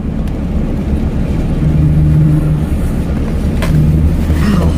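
Car engine running, heard from inside the cabin: a steady low rumble with a faint hum that rises and fades twice.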